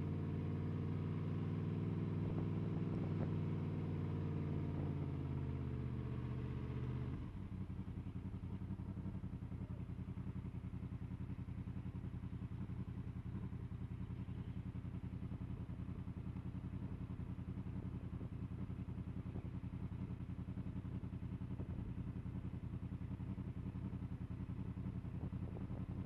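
Honda VFR800 VTEC's V4 engine running with its pitch falling gently as the bike slows, then dropping abruptly about seven seconds in to a steady, even idle.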